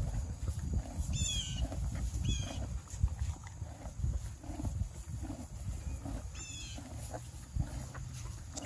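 Horse chewing its feed, a steady rhythmic munching of about two chews a second.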